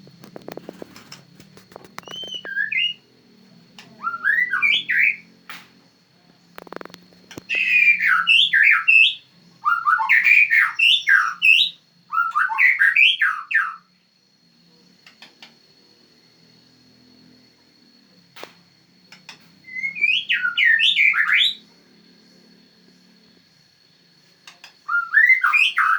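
White-rumped shama (Medan murai batu) singing: short, varied phrases of rapid whistled notes sweeping up and down, one phrase every few seconds with a longer pause about halfway through.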